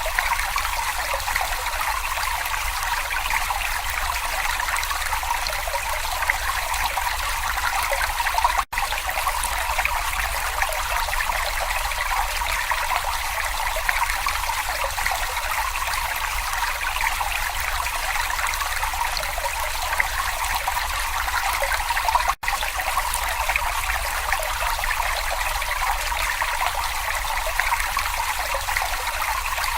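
Brook babbling and trickling steadily. The sound cuts out for an instant twice, about nine and twenty-two seconds in.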